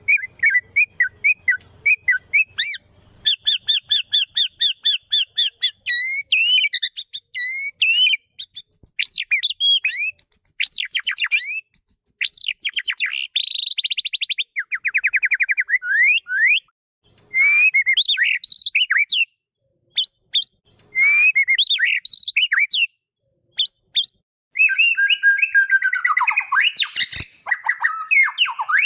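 White-rumped shama (murai batu) singing a fast, varied song of whistled notes, rapid trills and rising and falling phrases, broken by a few short pauses, turning to harsher, denser chattering near the end.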